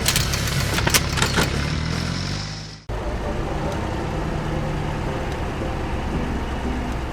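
Heavy machinery diesel engine running, with several sharp knocks in the first second and a half; its pitch falls as it fades out just under three seconds in. After an abrupt cut, another engine runs steadily.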